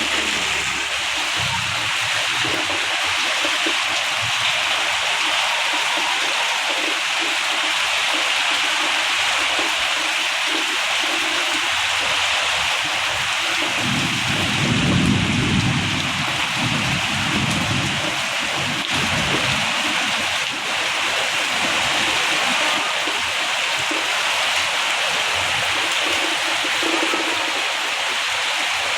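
Heavy rain pouring down in a steady, even hiss. About halfway through, a low rumble swells for a few seconds and fades.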